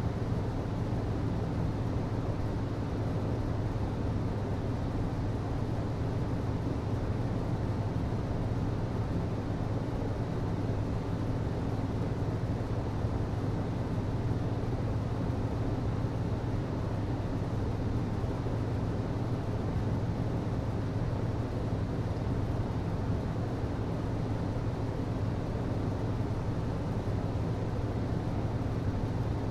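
HVAC system running: a steady low hum under an even hiss, unchanging.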